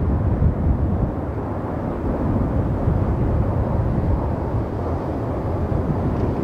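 A train running past, heard as a steady low rumble.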